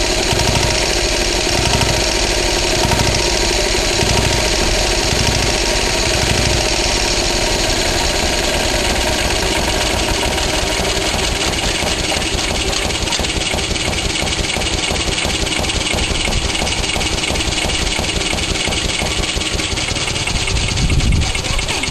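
1960s Yanmar L5 5 hp single-cylinder diesel engine running. A slow low throb of about one a second over the first several seconds gives way to a quicker, even beat, with a brief low surge near the end.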